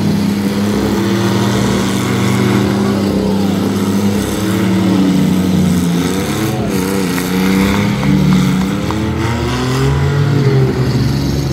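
Several compact demolition-derby cars running at once, their engines revving with overlapping pitches that rise and fall.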